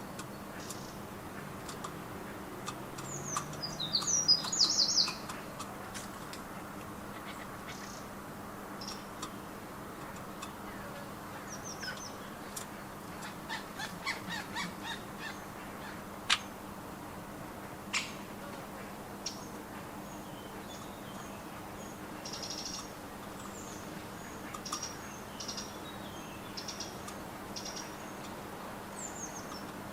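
Small garden birds chirping and calling, with a loud burst of high, rapid calls about four seconds in and scattered short chirps after it. A few sharp clicks stand out in the second half.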